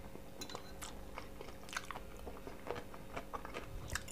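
A person chewing food close to the microphone: scattered soft smacks and small mouth clicks, over a faint steady hum.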